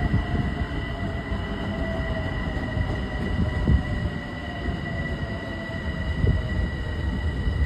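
New York City subway train running through the station: a continuous low rumble with irregular knocks from the wheels and cars, over a steady high whine.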